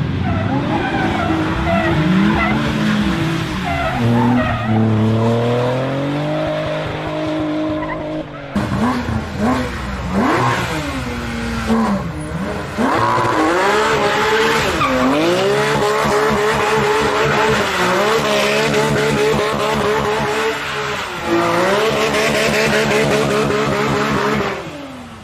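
Car engine revving hard and rising and falling in pitch with the throttle, with tyres squealing and skidding as it slides through drifts. An abrupt change about eight seconds in suggests a second run.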